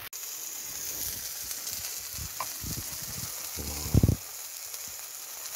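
Burgers and bacon frying over a campfire: a steady sizzling hiss. About four seconds in there is a short pair of low thumps.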